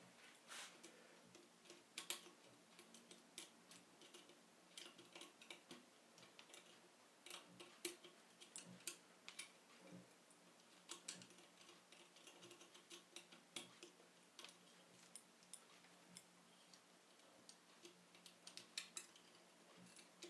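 Irregular light clicks and taps of small hard objects being handled, scattered unevenly, over a faint steady hum.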